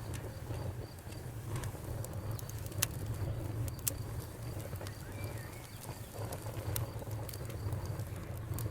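Wood fire burning in a fireplace: a steady low rumble of flames with sharp crackles and pops scattered through, a few louder snaps standing out.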